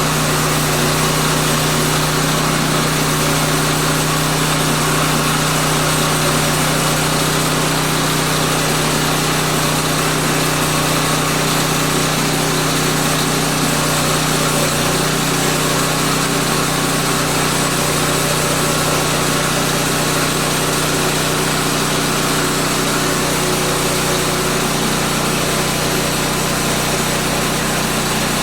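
Woodland Mills portable band sawmill's gas engine running steadily at a constant high speed, with the band blade sawing through a beetle-killed pine log.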